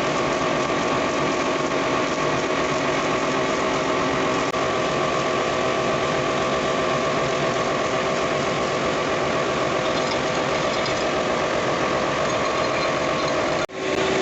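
Kirloskar KC2 reciprocating refrigeration compressor running steadily, a continuous mechanical hum with a few steady tones; the sound drops out for a moment near the end.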